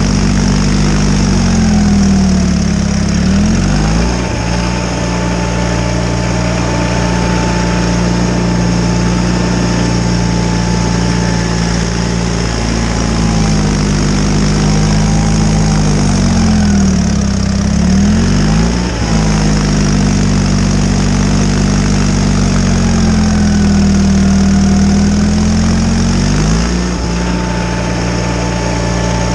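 John Deere 318 garden tractor engine running with a Model 49 snowblower, at a steady speed with a thin whine above it. Its pitch sags and recovers three times: about three seconds in, a little past the middle, and near the end.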